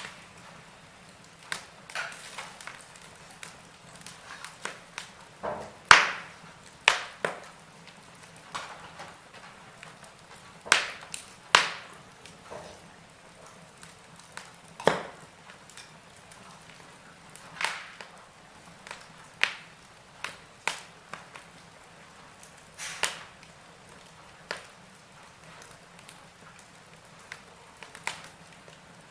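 Wood fire in a fireplace crackling: irregular sharp snaps and pops over a faint steady hiss, the loudest snap about six seconds in.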